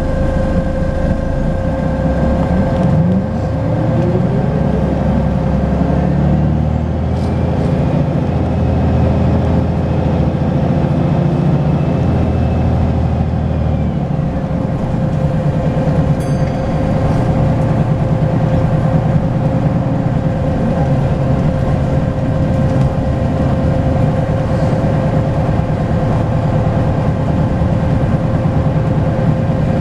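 Volvo B10BLE bus engine running under way with a steady whine, which the recording's title calls a turbo whistle. The engine note rises about three seconds in, eases around fourteen seconds in, then runs steadily.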